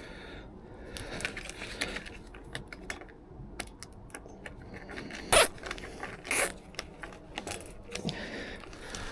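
Plastic cable ties being pulled tight around steel reinforcing mesh: scattered light clicks and rattles, with two louder short strokes about five and a half and six and a half seconds in.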